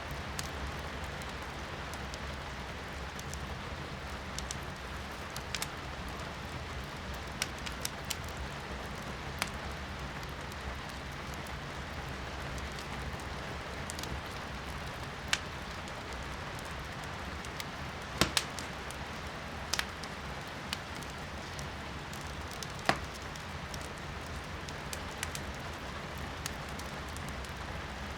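Firewood burning in a fireplace, crackling and popping with scattered sharp snaps, over a steady hiss of rain heard from indoors.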